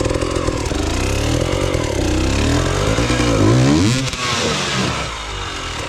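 Trail motorcycle engine running and revving. Its pitch rises and falls several times through the middle, then it eases off near the end.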